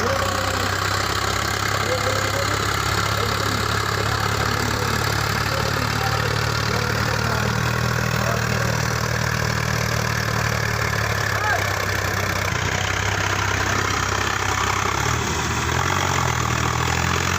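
Farm tractor's diesel engine running steadily at a low, even beat, its note shifting about 15 seconds in.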